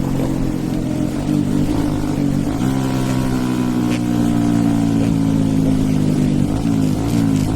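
Hero Eco 150 motorcycle's single-cylinder engine, stage 2-tuned, running under way. The engine note climbs about a second in and again near three seconds in, holds and sags slightly, then dips and rises a few times near the end as the throttle is worked.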